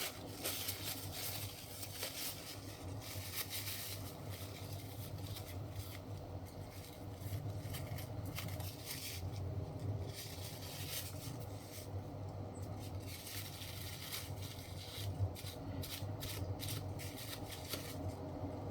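Irregular rustling and scraping from hands-on work at close range, in many short bursts, over a steady low hum.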